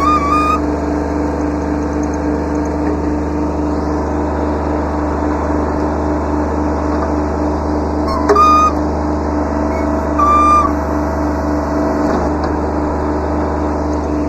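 Kubota B7100 tractor's three-cylinder diesel engine running steadily. Three short high-pitched whines break over it: one right at the start, one about eight seconds in and one about ten seconds in.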